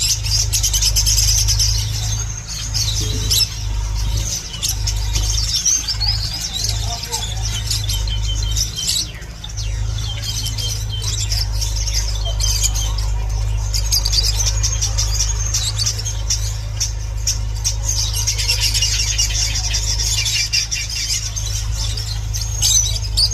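A flock of finches chirping and chattering: many rapid, high-pitched overlapping calls, busiest at the start and again near the end, over a steady low rumble.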